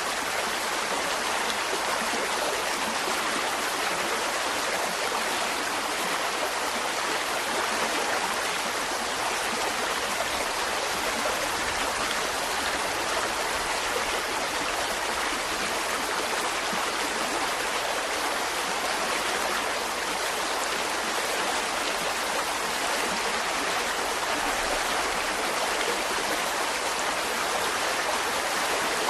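Mountain stream flowing: a steady, even rush of water running over rocks.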